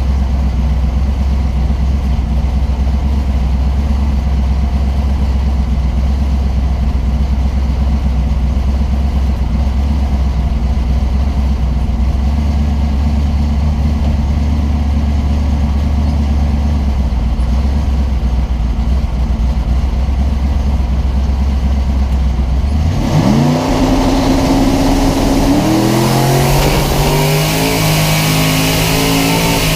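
Twin-turbocharged LS 427 V8 idling steadily, heard from inside the car. About three-quarters of the way through it revs up sharply, holds high for a couple of seconds, then climbs again in pitch as the car accelerates, with rising rushing noise over the engine.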